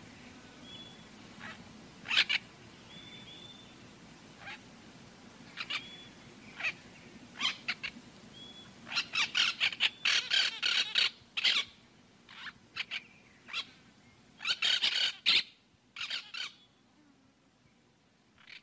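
Birds chirping and calling: scattered short high notes and a few brief whistles, building to clusters of rapid chirping about halfway through and again near the end, over a faint low hum.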